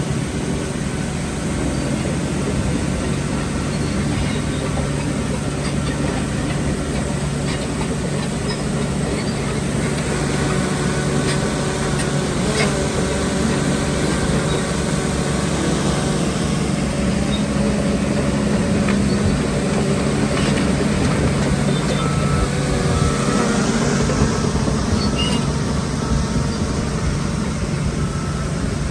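Heavy diesel earthmoving machinery running steadily under load, with a few sharp metallic knocks.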